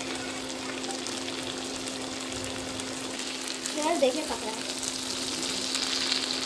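Chicken pieces frying in oil and masala in a pan, sizzling steadily while being stirred with a steel ladle; the sizzle grows louder after about five seconds. A steady low hum runs underneath, and a short wavering sound stands out about four seconds in.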